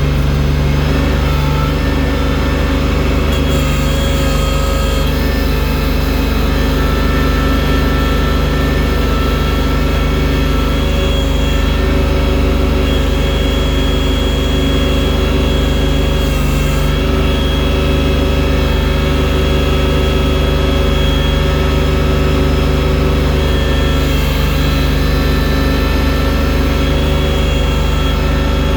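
Engine of a snow-clearing machine fitted with a loader bucket, running steadily at a constant speed with a steady hum.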